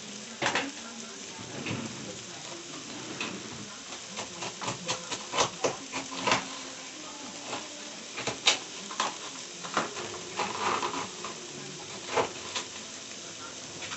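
Frozen okra cooking on high heat in a pot, sizzling steadily, with many scattered clicks and clinks of kitchenware over it.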